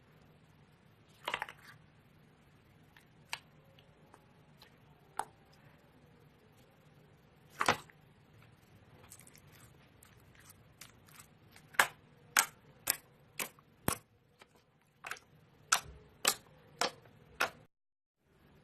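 Slime being handled, making sharp pops and clicks: a few scattered ones at first, then a quicker run of about two a second in the second half.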